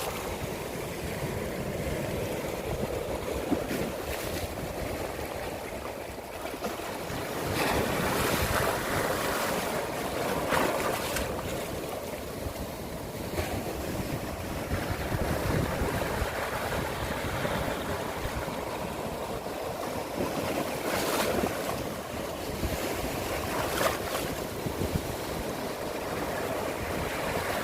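Sea waves washing in and breaking, swelling louder every few seconds, with wind buffeting the microphone.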